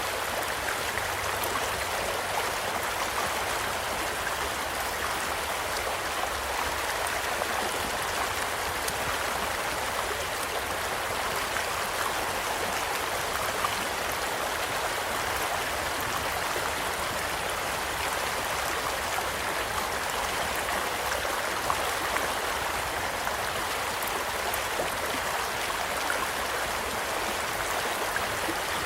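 Gentle stream flowing steadily, with occasional crackles and pops from a campfire; one pop stands out about halfway through and another some eight seconds later.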